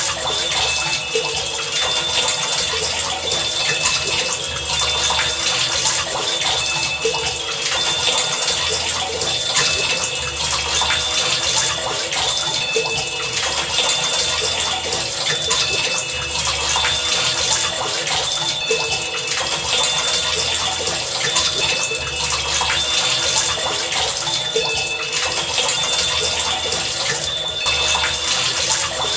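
Heavy rain pouring steadily, with short high tones and soft low thumps recurring every second or two.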